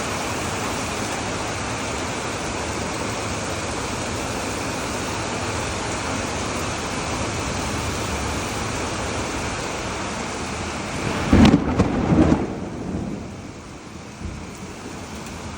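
Heavy rain falling in a steady hiss, with a loud low rumble about eleven seconds in; after it the rain sounds quieter.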